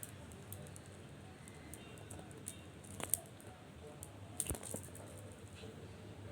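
Kitten playing: scattered light taps and clicks over faint room noise, with the sharpest ones about three seconds in and a short cluster around four and a half seconds.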